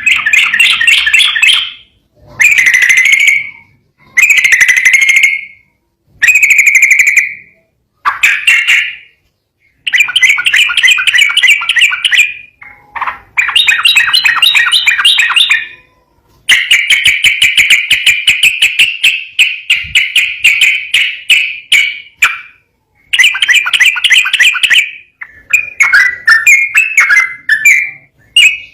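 Yellow-vented bulbul (trucukan) singing in repeated bursts of fast, rolling chattering notes, each burst one to two seconds long with short pauses between; about halfway through, one unbroken run goes on for roughly six seconds.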